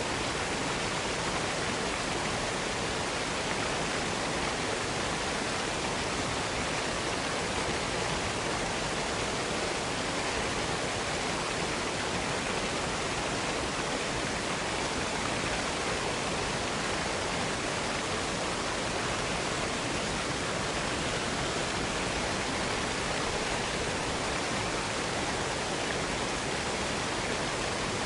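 Waterfall cascade: a steady, unbroken rush of falling water.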